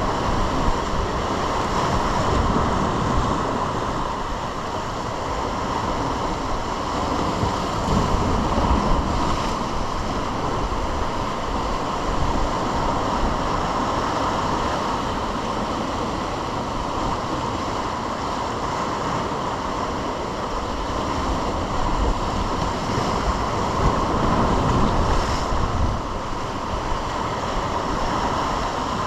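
Ocean surf washing steadily along a rocky shore, with gusts of wind buffeting the microphone.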